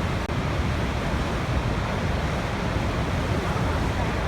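Waterfall: water falling and splashing in a steady, unbroken rush, strongest in the low range.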